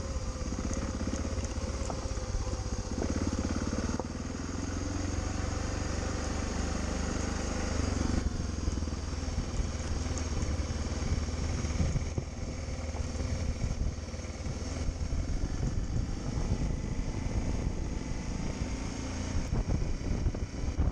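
Motorcycle engine running under way, its pitch rising and falling with the throttle in the first half, then a rougher, noisier stretch.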